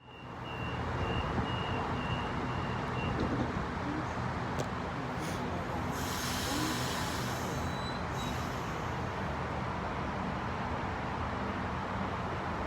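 Sydney Trains A-set electric train at the station, with a steady rumble and hum from its running gear and equipment. There is a burst of air hiss about six seconds in.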